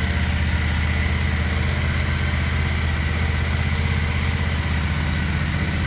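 2007 Triumph Speedmaster's air-cooled parallel-twin engine idling steadily while warming up after a cold start, an even, rapid low-pitched pulsing.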